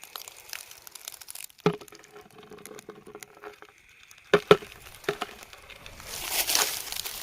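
Rustling and crinkling handling noise, with sharp knocks about one and a half seconds in and twice around four and a half seconds, and a denser rustle near the end.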